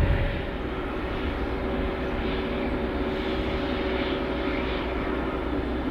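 Aircraft engines running steadily, a constant hum with a faint steady whine.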